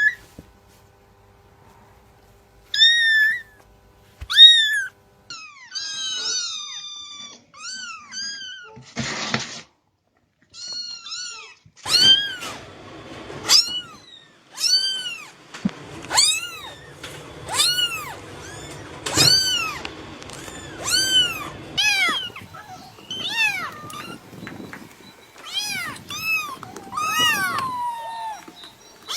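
Cats meowing: a string of short, high-pitched meows, sparse and sometimes overlapping at first, then about one a second. A brief harsh noisy sound comes about nine seconds in.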